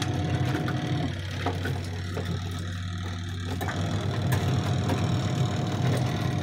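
Semi-automatic washing machine's wash motor running with a steady low hum, churning the soapy water, with a few small knocks as clothes go in.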